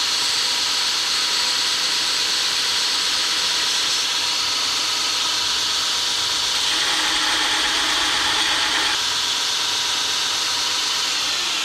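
Grinder running steadily with a high whine while grinding the forged steel punch to shape; the grinding sound fills out for about two seconds some seven seconds in.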